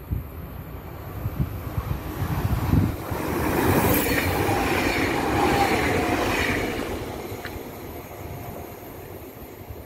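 CFL class 2300 Stadler KISS double-deck electric multiple unit passing through the station at speed without stopping. Its rumble builds over about three seconds and peaks with a whine from the wheels and running gear for about three seconds, then fades as it moves away.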